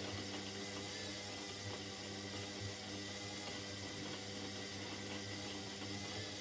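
Indesit 71252 washing machine running mid-cycle: a steady, even hum with a faint rushing noise and no change in pace.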